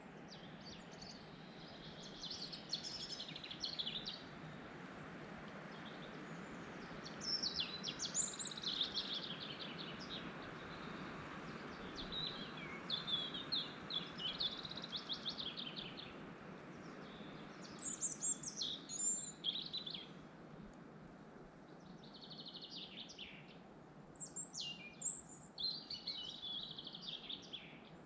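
Several forest birds singing in short, rapid phrases of chirps and trills every few seconds over a steady rush of wind through trees.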